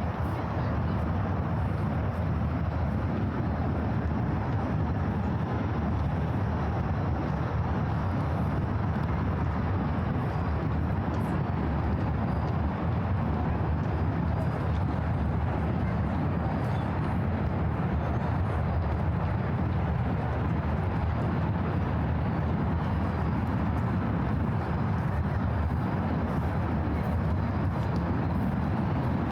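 Steady low rumble of city ambience, mostly distant road traffic, holding an even level throughout.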